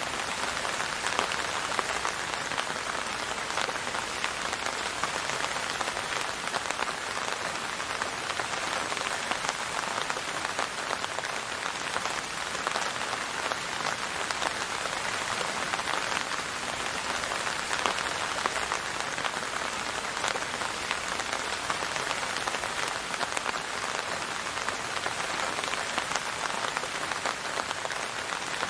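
Steady rain falling on a surface, an even hiss dense with fine drop ticks, with no thunder.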